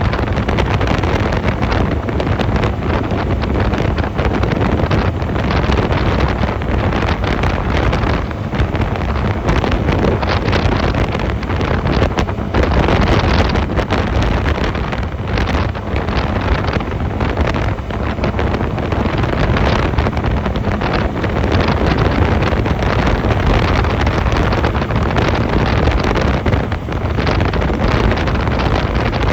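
Honda 250cc motorcycle running on the move, with heavy wind buffeting on the microphone over the engine.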